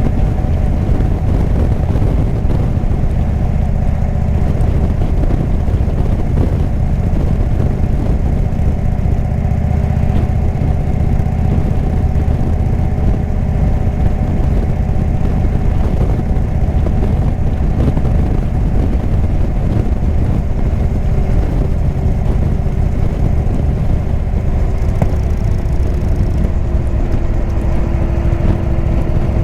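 Indian V-twin motorcycle with a Jekill & Hyde exhaust running steadily under way, its engine note dropping slightly near the end.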